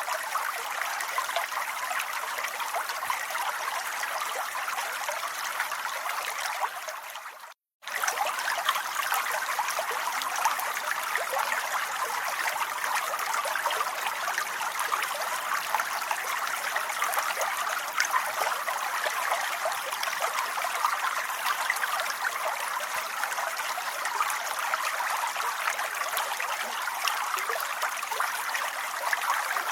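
Steady rain, a dense even patter of drops. It fades out and goes silent for a moment about seven seconds in, then resumes at once, as at the join of a looped recording.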